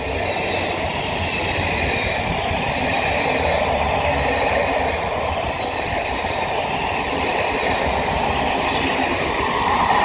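Passenger coaches rolling past at close range: a steady noise of wheels on the rails, with a faint high wheel squeal that comes and goes.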